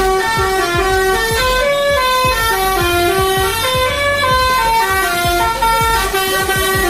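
Musical truck horn playing a tune, one stepped note after another, over an engine running underneath.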